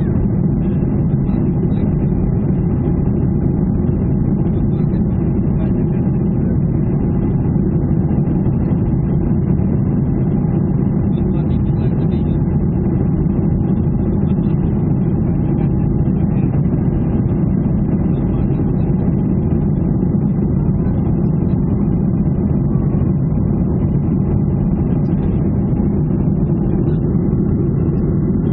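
Steady cabin noise inside a Ryanair Boeing 737 airliner: its jet engines and airflow making a constant low rumble, with no change in pitch or level.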